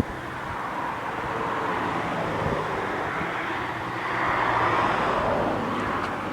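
A stream swollen after a heavy thunderstorm, its water rushing steadily, swelling louder about four seconds in.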